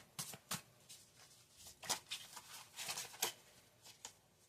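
Tarot cards being handled: a few short, irregular papery flicks and slides as cards are moved and laid down.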